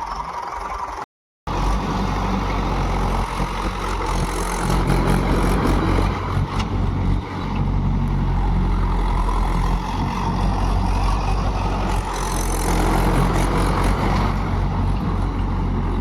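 Mahindra tractor's diesel engine running hard with a steady low drone as the tractor is spun on one wheel. The sound cuts out completely for a moment about a second in, then comes back at the same steady load.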